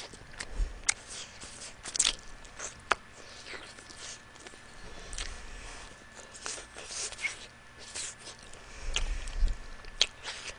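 Close-miked eating of sauced bone-in chicken wings: wet chewing, lip smacks and sharp mouth clicks come irregularly, with a few soft low thumps.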